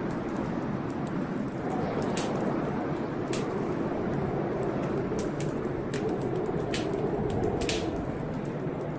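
Wood fire in a fireplace crackling, with irregular sharp pops over a steady rushing noise.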